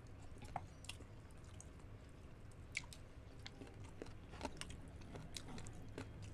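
Two people chewing food with their mouths: faint wet smacks and scattered sharp mouth clicks.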